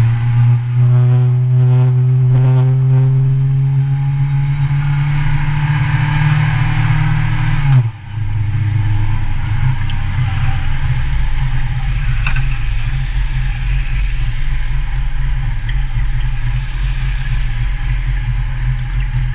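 Motorcycle engine under way, its pitch climbing slowly for about eight seconds. The pitch and loudness then drop sharply and briefly, and the engine runs on steadily at a lower pitch with a low rumble.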